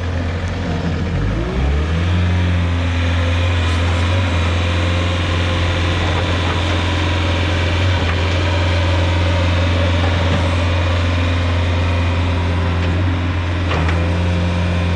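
Plow truck engine rising in pitch about a second in, then running steadily at idle.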